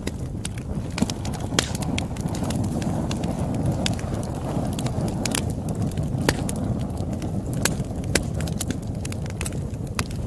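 Wood fire crackling: a steady low rushing of the flames with irregular sharp pops and snaps scattered throughout.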